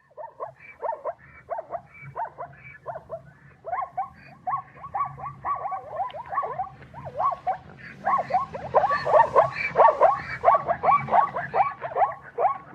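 Rapid, repeated short animal calls, each falling in pitch, about three a second, growing louder in the second half.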